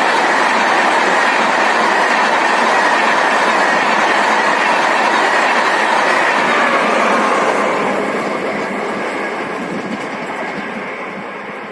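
Amrit Bharat Express train running past at speed: a loud, steady rush of wheels on the rails, dipping slightly in pitch and fading away over the last few seconds as it moves off.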